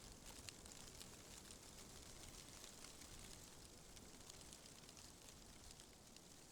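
Faint, steady rustling of tree leaves in the wind, with many small crackling ticks among the leaves.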